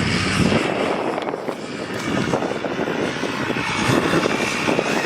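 A vehicle engine working hard, with a dense crackling, gritty noise over it.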